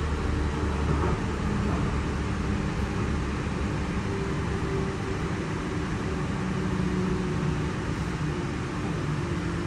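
Interior running noise of a Goninan-built K set double-deck electric passenger train travelling at speed: a steady rumble and rush of wheels on rail, heard from inside the carriage, with a faint hum whose pitch drifts slightly.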